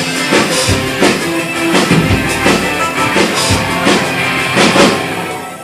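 Live rock band playing the closing instrumental bars of a song: drum kit hits and cymbal crashes about twice a second over held guitar chords, dying away near the end.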